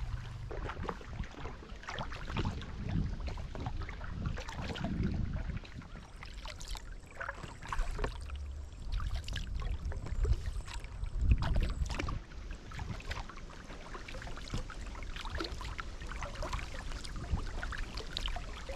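Kayak paddle strokes dipping and splashing in river water, irregular splashes and drips, with a low rumble underneath.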